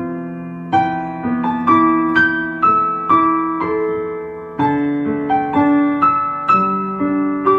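Slow, mellow piano-like keyboard music: soft chords and single notes struck about every half second, each left to ring and fade.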